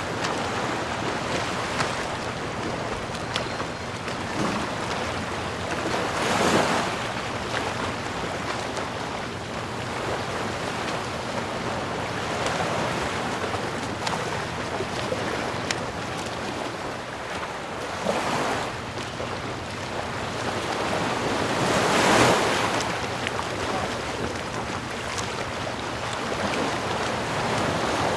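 Sea waves washing onto the shore: a steady surf noise, with louder waves breaking three times, the biggest near the end.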